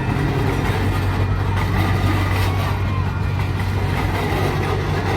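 Steady low engine hum and rumble from the blue miniature park train as it runs along near the crossing gate.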